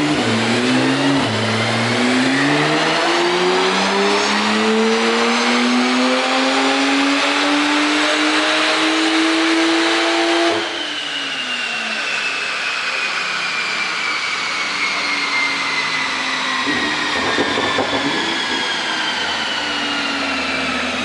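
A car's engine making a full-throttle pull on a chassis dyno, its pitch rising steadily for about ten seconds. It then cuts off abruptly as the throttle is released, leaving a high whine that falls slowly in pitch as the car coasts down on the rollers.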